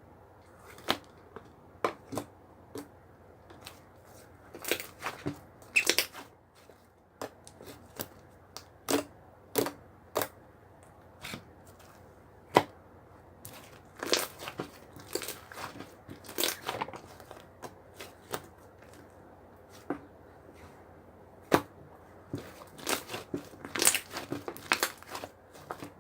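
Scattered sharp clicks and short crinkling, rustling handling noises at irregular intervals, close to the microphone, with no speech.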